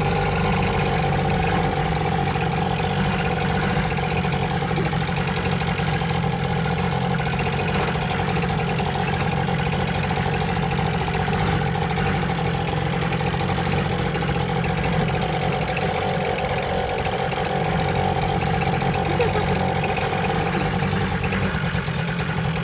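Motorcycle-and-sidecar engine running steadily, its pitch holding level throughout.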